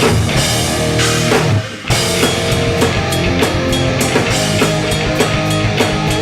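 Hardcore punk band playing live: distorted guitars, bass and drum kit with no vocals. About a second and a half in the band stops briefly, then comes back in with steady drum hits.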